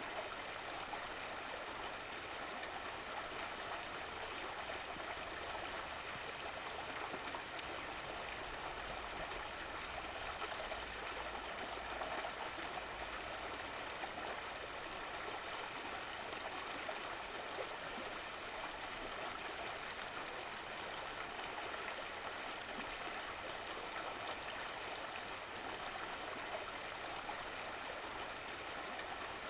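Running water of a stream, a steady rushing and trickling.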